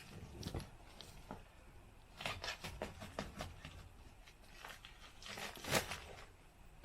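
Faint scattered scraping and tapping from hand work, with one louder knock about six seconds in.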